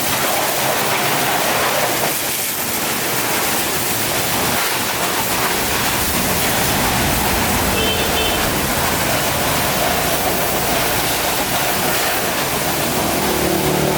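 Steady, loud rushing hiss of spraying water or air over a low, steady motor hum.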